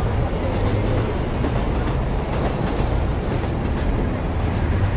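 Steady low rumble of a passing light-rail train and road traffic, an even city din with no separate events.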